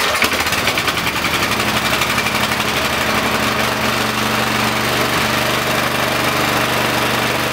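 Briggs & Stratton 5 hp single-cylinder generator engine running steadily on choke, just after its carburettor was cleaned, showing it now starts and runs.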